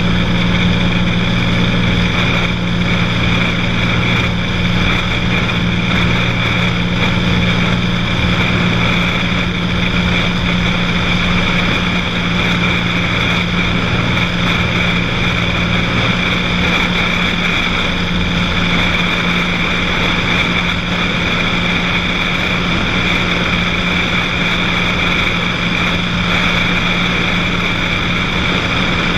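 Cessna 182's piston engine and propeller running steadily in flight, heard as a constant loud drone from inside the cabin.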